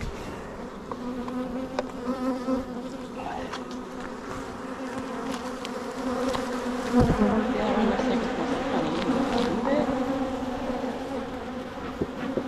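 Honeybees buzzing around an open hive, a steady drone of many wings that grows louder about halfway through, with a few light clicks of handling.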